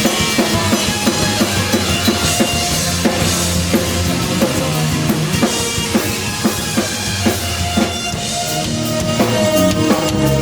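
Live band playing an instrumental passage: a busy drum kit with fast bass-drum and snare hits over sustained bass guitar notes and held keyboard tones.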